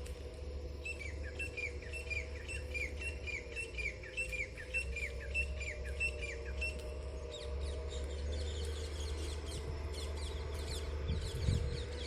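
A bird calling a steady series of short, falling chirps, about two a second, for around six seconds. After that come fainter, higher and quicker chirps, over a steady low hum.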